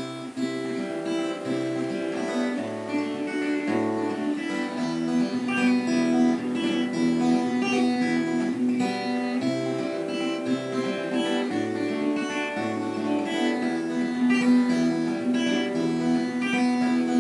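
Acoustic guitar playing a fingerpicked accompaniment pattern (perebor), the bass note changing with each chord, as the instrumental introduction to the song.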